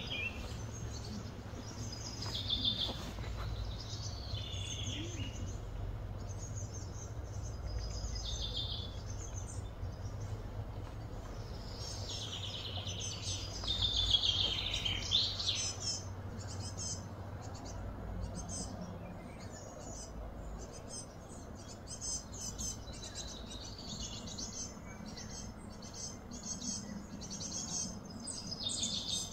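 Birds chirping and calling in repeated short phrases, loudest about halfway through, over a steady low background hum.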